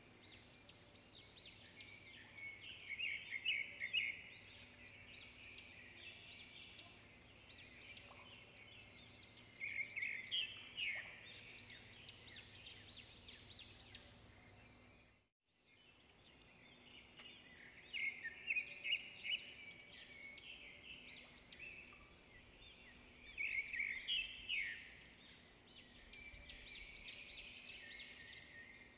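Songbirds chirping and trilling, with louder flurries of song every several seconds. The sound cuts out completely for a moment about halfway through, then the birdsong starts again.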